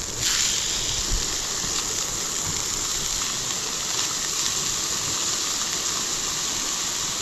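Burgers sizzling on a grate over a campfire: a steady hiss with a few faint crackles.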